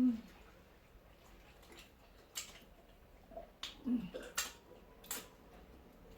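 A spoon clinking against a plate during a meal, about four sharp clicks in the second half, with a short closed-mouth hum at the start and another about four seconds in.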